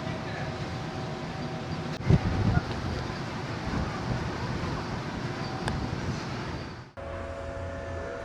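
Steady engine rumble and hiss of the ferry's onboard background noise, with a loud low double thump about two seconds in. Near the end it cuts abruptly to a quieter steady hum with a clear tone.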